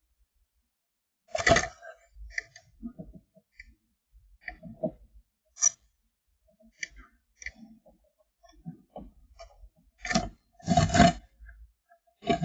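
Irregular taps, knocks and scrapes of a tit moving about on a wooden nest box, its feet and beak striking the wood, with louder bursts of knocking about a second and a half in and again near the end.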